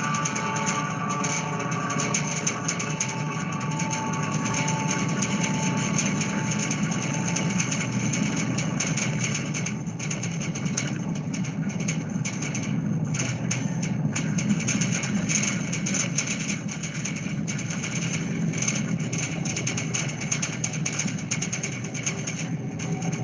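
Played-back field recording of strong wind through metal structures and wire ropes, with percussion layered in: a steady low drone under a dense metallic rattle, with a few held tones that fade out in the first several seconds.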